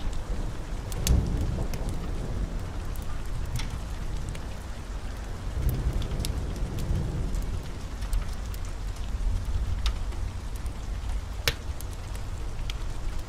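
Steady heavy rain with thunder rumbling low underneath, swelling about a second in and again near the middle. Sharp clicks are scattered through it.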